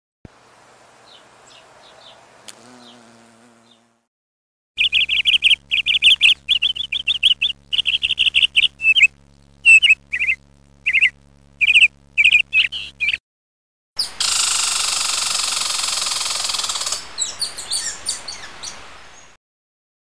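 Small bird chirping: quick high chirps repeated in rapid runs with abrupt gaps, over a low steady hum. After a short silence comes a loud steady hiss lasting about three seconds, which breaks into scattered chirps before it cuts off.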